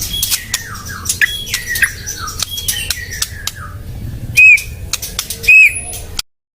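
White-rumped shama singing: a fast run of clicks and short down-slurred whistles, with two loud clear whistled notes near the end, then the song cuts off abruptly.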